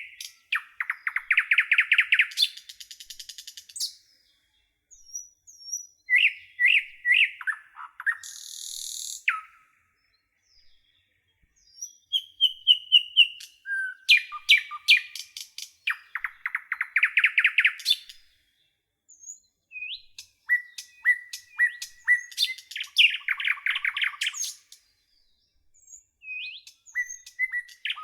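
Songbirds singing: phrases of rapid trills and whistled notes, each lasting a second or two, separated by short pauses.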